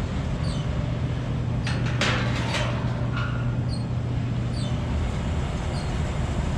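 Furnace blower motor running with a steady low hum and a faint high tick about once a second. A brief clatter of handling sounds comes about two seconds in.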